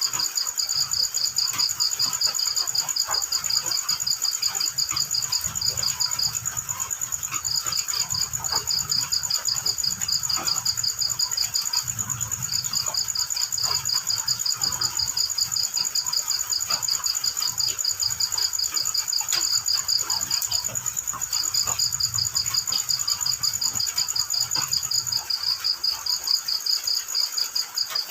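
Field crickets chirping in a fast, even pulsed trill, in long runs broken by short pauses, over a steady high-pitched insect whine.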